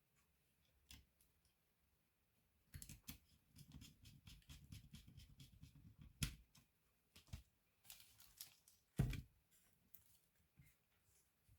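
Small handling noises of laptop parts being worked on: faint clicks and taps, a stretch of soft scraping and rubbing, then two sharper knocks, the louder one near the end.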